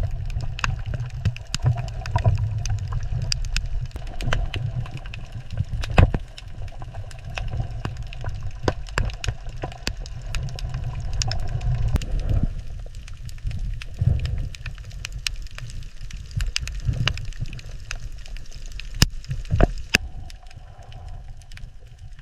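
Water ambience: a steady low rumble of moving water with scattered sharp clicks and pops throughout.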